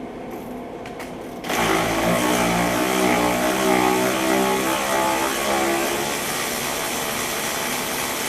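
Handheld power tool whining as it spins out one of the 14 mm bolts holding a rear wheel bearing hub assembly. It starts suddenly about one and a half seconds in, its pitch wavering at first, then steadier and a little quieter.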